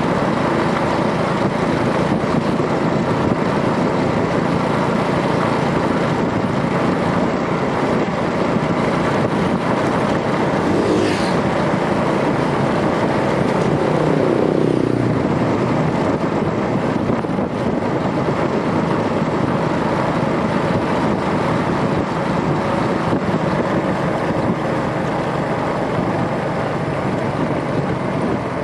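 Rusi DL125 125 cc motorcycle running steadily at riding speed, its engine mixed with road and wind noise. A brief falling tone passes twice, around the middle.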